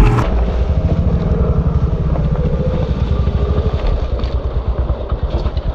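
Small single-cylinder four-stroke pit bike engine running under way, a steady rapid putter.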